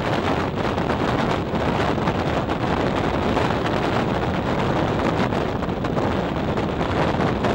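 Steady rush of wind on the microphone held out of a moving regional train's window, mixed with the train's running noise on the rails.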